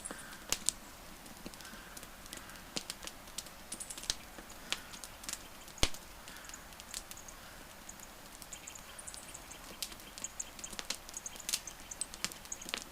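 Wood fire crackling: irregular sharp snaps and pops, one louder pop about halfway through, over a soft hiss. Faint short high chirps come and go in the background.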